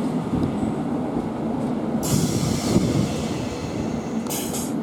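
Electric passenger train running through the station with a steady low rumble. A short hiss of air comes about two seconds in, and another brief hiss near the end.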